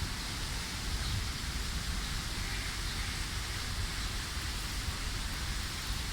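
Steady wind: an even hiss of leaves rustling over a low rumble of wind buffeting the microphone.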